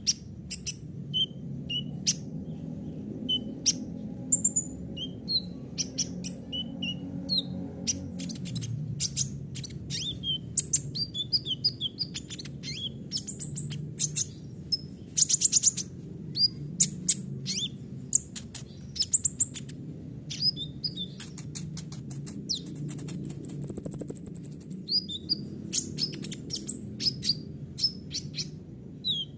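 Kolibri ninja sunbird singing a fast, varied song of short high chirps, clicking notes and rapid trills, with a loud high buzzing trill about two-thirds of the way through. A steady low hum runs underneath.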